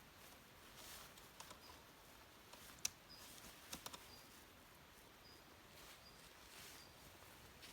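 Near silence: quiet outdoor ambience with a few faint sharp clicks, the loudest about three seconds in, and a faint high chirp repeating about once a second.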